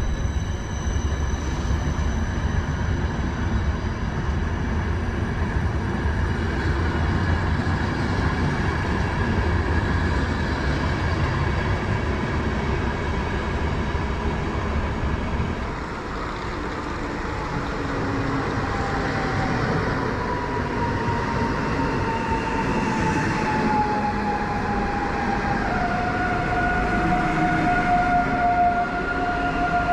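Regional passenger train running with a steady low rumble; about two-thirds of the way through, a whine comes in that falls in pitch and then holds steady, with a second higher whine above it near the end.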